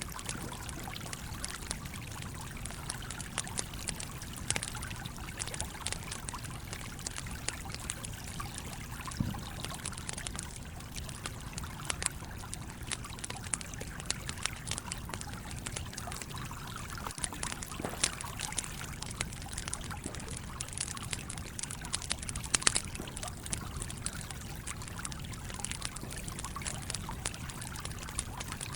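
Campfire crackling with many scattered sharp pops over the steady rush of a flowing stream. The loudest pop comes about three-quarters of the way through.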